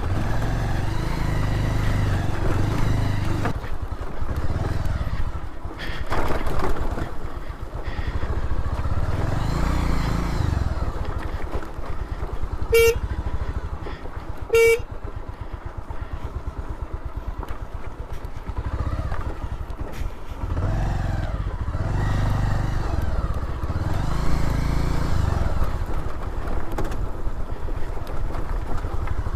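Motorcycle engine running while being ridden, its revs rising and falling. About halfway through, a horn beeps twice in short toots about two seconds apart.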